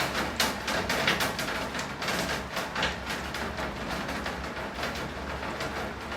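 Rain falling steadily, with many sharp drops striking close by, denser in the first few seconds and thinning toward the end, over a low steady hum.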